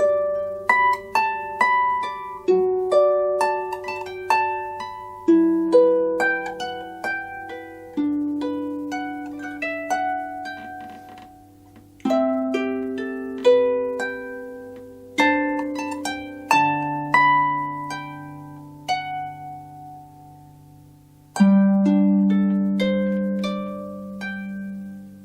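Solo harp playing: plucked melody notes ring out and fade over held bass notes, with a slower passage that dies away before a louder chord about three-quarters of the way in.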